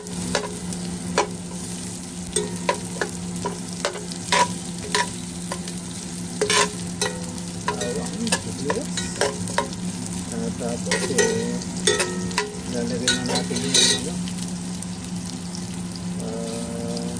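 Garlic and onion sizzling in oil in a nonstick pan while a metal spoon stirs them, clicking and scraping against the pan many times, over a steady low hum.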